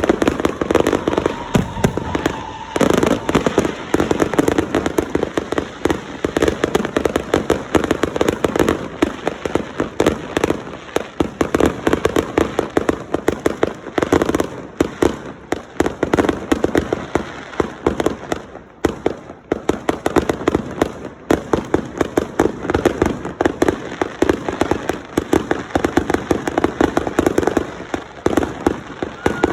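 Fireworks going off in a dense, continuous barrage of rapid crackling bangs, with no pause.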